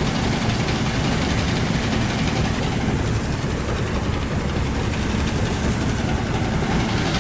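Rice combine harvester running steadily, its engine and machinery giving a dense, even mechanical din.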